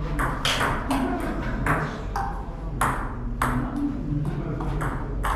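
Table tennis rally: the celluloid/plastic ball clicking off paddles and the table about twice a second, with a low hum of the hall beneath.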